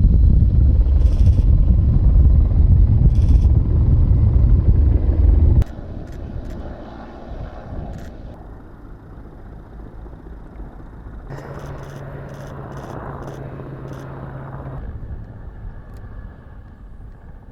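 A loud low rumble, like a nearby engine or machine, for the first five or six seconds. It cuts off suddenly to a much quieter steady background, which changes a few more times.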